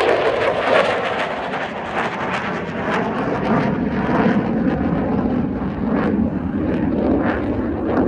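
A fixed-wing aircraft flying past in a display, a loud steady roar whose pitch sinks as it goes by, with crackling through it.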